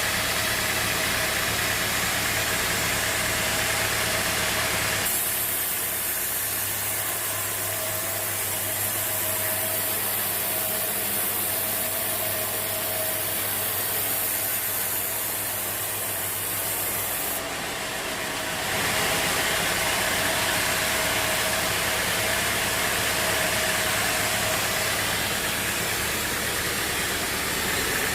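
Band sawmill running steadily with a constant engine drone and a steady whine, the sound shifting abruptly about five seconds in and again about eighteen seconds in.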